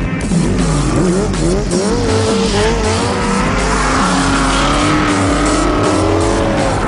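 Drift car engine revving up and down hard, its pitch rising and falling repeatedly, with tyre squeal.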